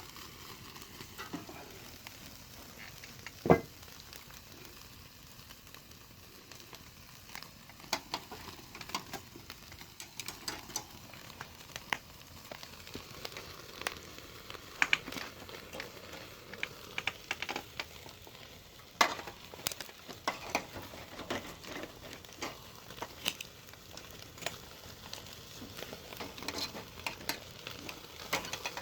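Beef sirloin sizzling on a grill grate over a wood fire, with frequent sharp pops and crackles from the burning firewood; one loud snap a few seconds in and another just past the middle.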